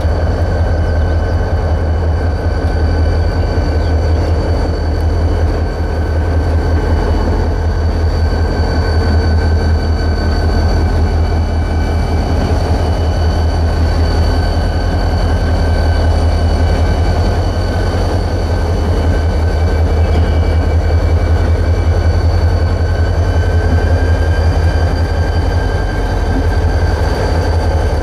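Freight train rolling past: a loud, steady rumble with a few faint high tones held throughout.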